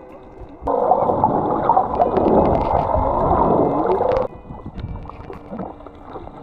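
Muffled rushing and bubbling water, heard with the microphone under the sea surface, for about three and a half seconds; it starts and stops abruptly, with quieter lapping water either side.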